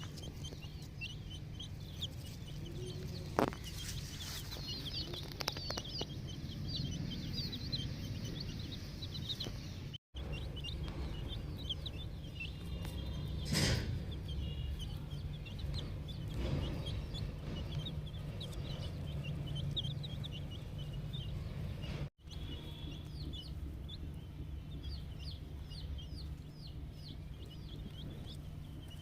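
A brood of ten-day-old chicken chicks peeping, many short high cheeps overlapping without pause, over a steady low hum. The sound briefly cuts out twice.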